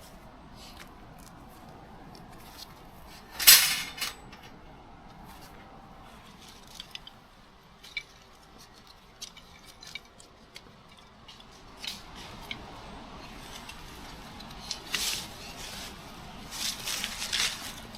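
Camp gear being handled by hand: scattered clicks and small knocks, with a loud short scraping rustle about three and a half seconds in and more rustling and scraping near the end.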